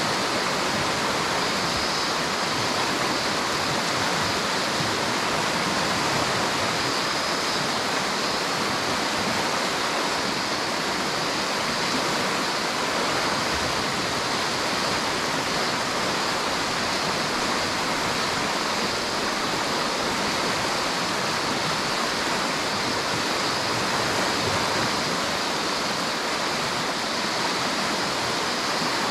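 River water rushing steadily, an even, unbroken noise with no other sounds standing out.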